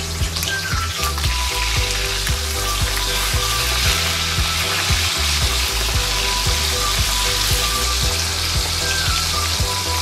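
Long beans deep-frying in hot oil in a metal wok: a steady, dense sizzle. Around the middle a wooden spatula stirs them through the oil.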